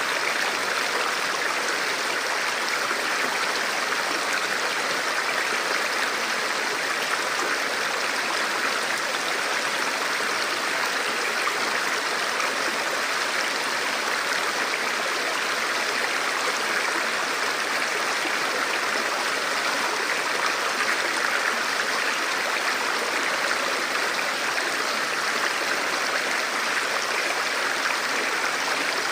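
Forest stream flowing steadily over rocks, an even rushing of water.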